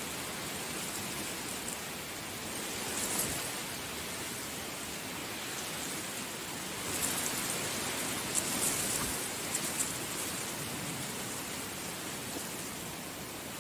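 Heavy rain falling steadily, a dense even hiss, with a few brief surges of louder crackling patter, about three seconds in and again from about seven to ten seconds in.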